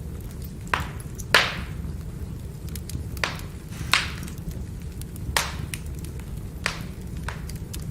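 Burning firewood crackling: a steady low rumble with about seven sharp pops, the loudest just over a second in.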